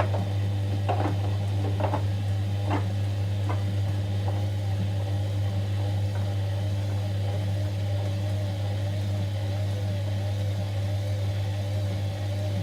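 Whirlpool washing machine running on a delicate cycle: a steady motor hum, with a few knocks of the load in the drum in the first few seconds. From about halfway a faint whine wavers slightly in pitch.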